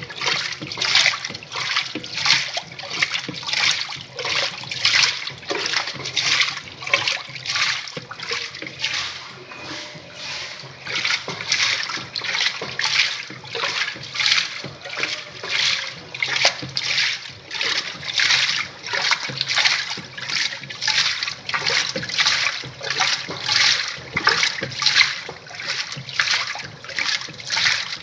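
Semi-automatic 'faz tudo' washing machine agitating a load, its water sloshing and splashing in an even rhythm of about three surges every two seconds over a low motor hum.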